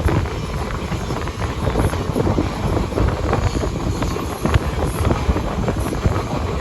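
Passenger train running along the track: a steady low rumble with rapid, irregular clatter from the wheels and coaches, and wind buffeting the microphone.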